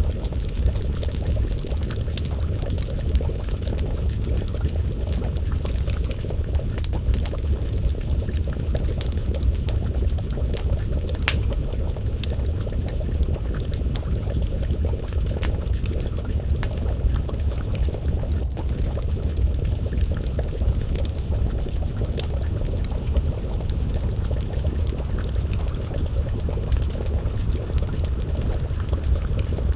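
Wood fire crackling, with frequent sharp pops and snaps over a steady low rumble, and a pot of stew simmering.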